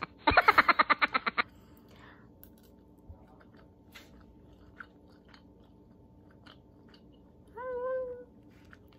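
A person chewing a mouthful of soft cooked white rice, with faint wet mouth clicks, and a short hummed 'mmm' near the end. It opens with a loud, rapid burst of about a dozen pulses lasting about a second.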